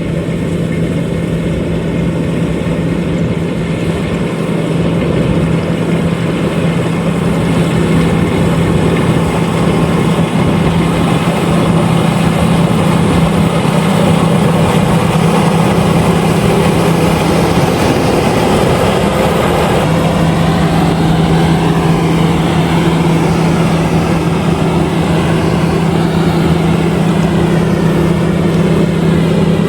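LOVOL RG130EVO combine harvester running steadily, a loud continuous engine drone with a constant low hum.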